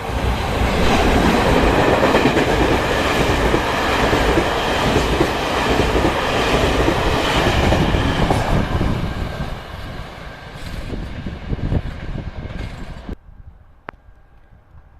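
A train passing close by on the track, loud running and wheel noise that eases off after about eight seconds; the sound drops away suddenly near the end.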